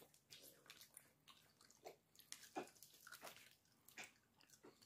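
Faint, scattered mouth smacks and small clicks of a toddler biting and chewing fried chicken, over near silence.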